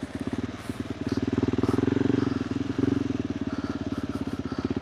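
KTM 390 Adventure R's single-cylinder engine through a Norifumi Whoops slip-on exhaust, pulsing at low revs while being ridden over rocky trail. The throttle opens from about a second in and is eased off again near the end.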